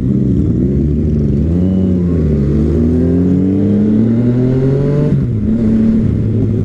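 Motorcycle engine under acceleration. The pitch wavers for about two seconds, then climbs steadily. It drops sharply about five seconds in at an upshift and starts climbing again.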